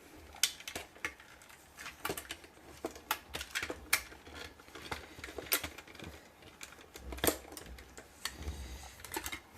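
LEGO plastic pieces clicking and clattering as the model is handled, irregular sharp clicks a few times a second, with one of the sharpest about seven seconds in.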